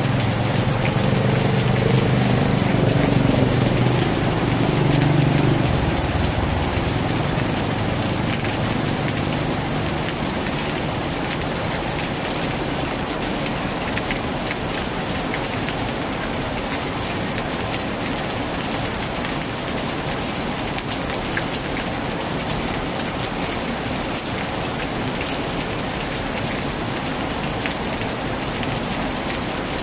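Heavy rain falling steadily. For the first few seconds a motor vehicle's engine runs beneath it, fading out about six seconds in.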